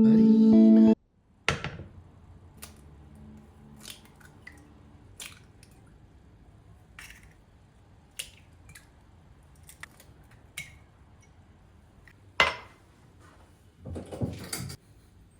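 Guitar music cuts off about a second in. After that come scattered kitchen handling sounds: dishes and utensils clicking and clacking as they are set down, with a sharp clack near the end and a brief scraping rustle just after it.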